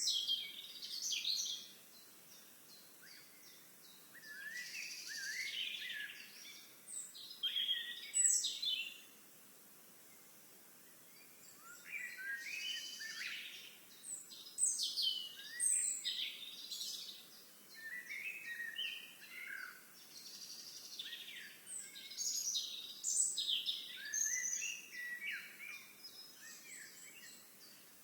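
Songbirds singing in bouts of quick, high chirps and trills, with short pauses between bouts.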